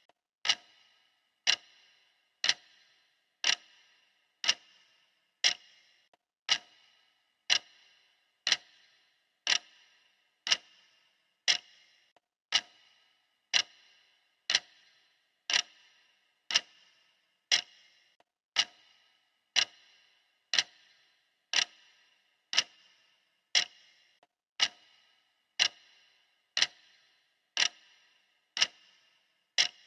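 Clock ticking steadily, about once a second, each tick a sharp click with a brief ring.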